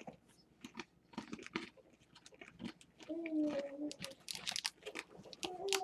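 Close crunchy chewing of a hard caramelized-peanut and puffed-rice bar like peanut brittle: many small crisp cracks. Twice a held, pitched sound of about a second cuts in, around halfway and near the end.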